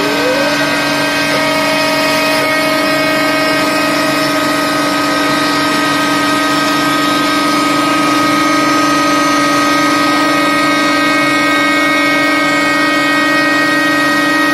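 A CNC machine running: its motors make a steady whine of several fixed pitches, after a short rise in pitch at the very start.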